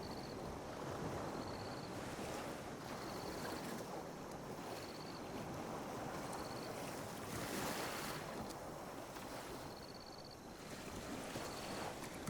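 Small ocean waves lapping and washing on a beach, surging and easing every few seconds. Behind them an insect chirps in short pulsed bursts about once every second and a half.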